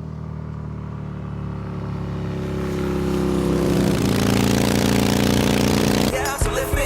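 Motorcycle engine running steadily, growing louder over the first four seconds, then cut off abruptly about six seconds in.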